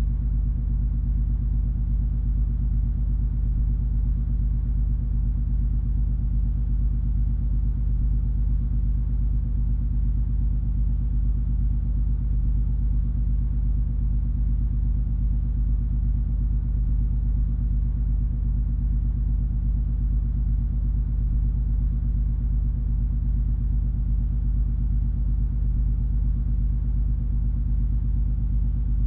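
Steady low drone of the cruise ferry MS Color Magic under way, heard on board: a deep, unchanging engine hum with a few steady low tones and no breaks.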